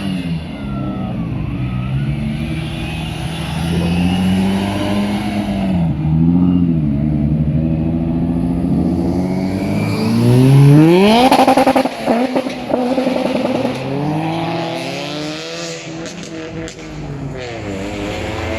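Car engines running and revving, the pitch wavering up and down. About ten seconds in one car accelerates hard, its engine note climbing steeply; this is the loudest moment. Another rev rises near the end.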